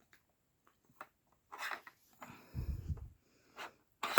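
Dog working a plastic Trixie Brain Mover treat puzzle: a few light clicks and a short rustle, then a longer noisy scuffle with a low thump near the middle, and a sharp clack at the end.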